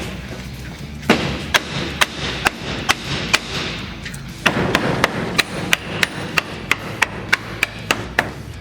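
Hammer blows on wooden coop framing: a steady run of sharp strikes, about two to three a second.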